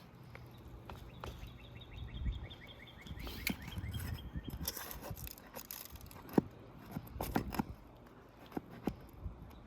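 Scattered knocks, clicks and scrapes of a pry bar working on asphalt roof shingles, breaking the seal and prying up nails, with wind rumbling on the microphone. A fast run of high ticks sounds in the first few seconds.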